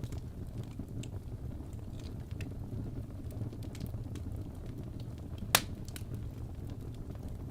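Crackling wood fire over a steady low rumble: sparse soft crackles, and one sharp, loud pop about five and a half seconds in.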